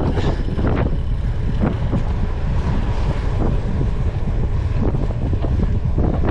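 Wind buffeting the microphone of a camera riding along on a cyclocross bike at race pace, a steady low rumble, with irregular knocks and rattles from the bike running over rough ground.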